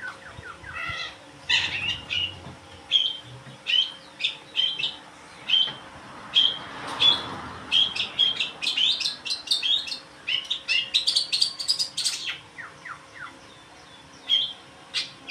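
Long-tailed shrike (cendet) singing: a rapid string of short, sharp chirping notes, thinning out for a moment near the end.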